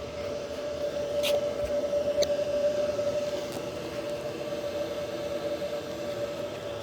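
Train at a railway station: a steady humming tone over a background rumble, with two sharp clicks a little over a second apart early on, getting somewhat louder for a couple of seconds.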